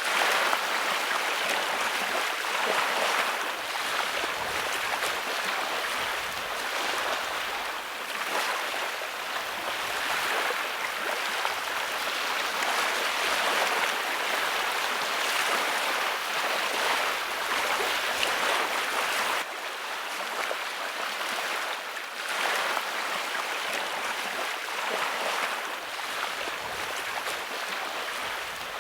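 Rushing water noise that swells and eases every few seconds, like sea water washing, with a sudden slight drop in level about two-thirds of the way through.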